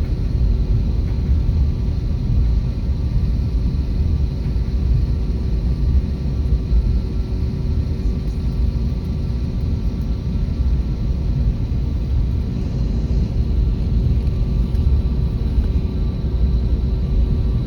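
Airbus A321neo jet noise: a steady, deep rumble that stays even throughout, with a few faint steady tones above it.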